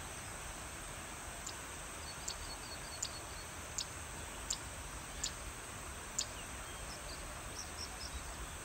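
Open-air ambience with a bird giving a short high chirp about every three-quarters of a second, some seven times in a row, with faint twittering and a steady insect hum beneath.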